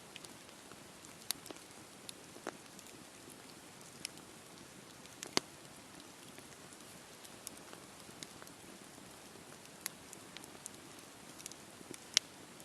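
Wood campfire burning: a steady soft hiss with scattered sharp crackles and pops, the loudest about five seconds in and again near the end.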